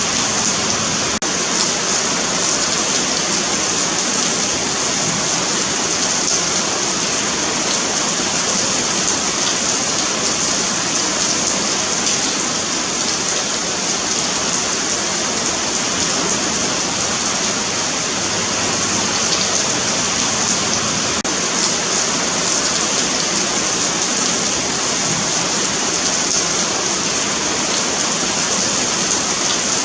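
Steady rain falling on a paved sidewalk, a continuous even hiss with faint scattered drop ticks.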